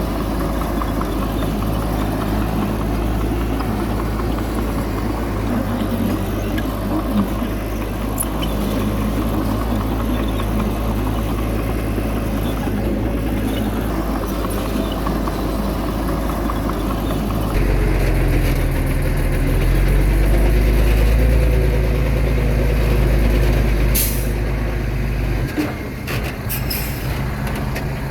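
Heavy diesel engine of earthmoving machinery running steadily. About two-thirds of the way through it gets louder and deeper, and near the end come a few short, sharp hissing or clanking sounds.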